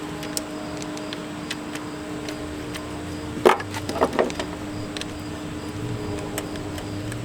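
Light clicks and taps of small parts being handled, with a louder clatter about three and a half seconds in, over a steady hum.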